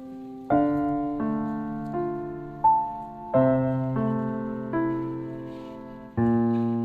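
Background piano music: slow, gentle chords and single notes, each struck and left to fade.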